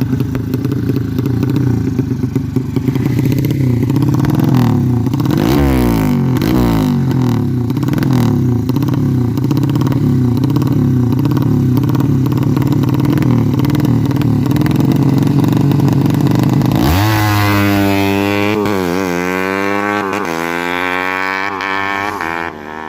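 Bored-out 200cc Yamaha Jupiter single-cylinder four-stroke drag-bike engine on a PWK Sudco 33 carburettor, running steadily with a few quick throttle blips about six seconds in. About seventeen seconds in it is revved sharply, then revved up and down repeatedly before easing off near the end, as the new carburettor is being set up.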